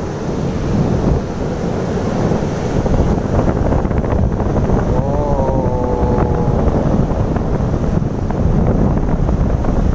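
Strong sea wind buffeting the microphone, with surf behind it. A brief pitched tone, dipping slightly and then holding steady, about halfway through.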